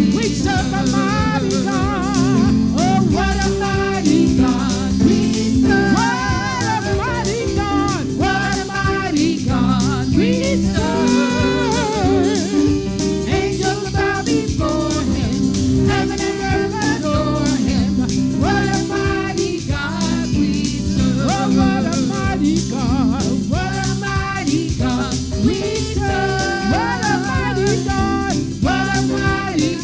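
Gospel song: a singer with vibrato over a full instrumental band, guitar among it.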